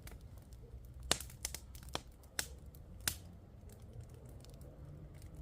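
Firewood crackling and snapping: irregular sharp pops, a few louder ones standing out, over a low rumble.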